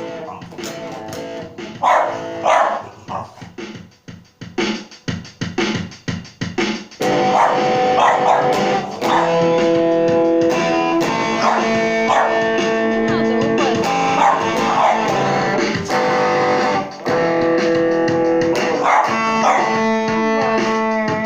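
Guitar being played: scattered single notes at first, then from about seven seconds in, loud sustained chords. A nervous dog answers it with short calls several times.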